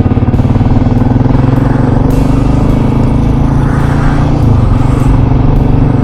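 Motorcycle engine running steadily while riding, heard from on the bike, with a slight drop in pitch about four and a half seconds in.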